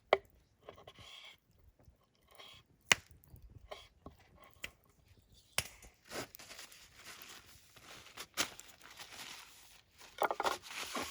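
Knife cutting raw meat on a cutting board: a few sharp knocks of the blade on the board, then from about halfway a stretch of rough scraping and sawing noise with scattered clicks.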